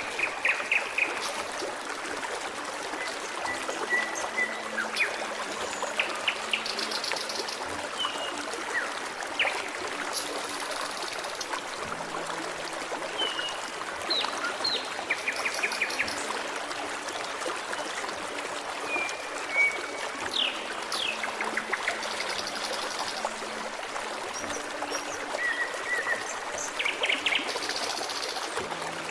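A forest stream trickling steadily, with songbirds giving many short chirps, quick trills and brief rising whistles over it.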